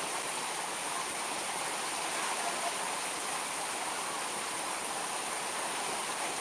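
Heavy tropical downpour: a steady rush of rain on wet pavement, with water pouring off a roof edge and splashing below.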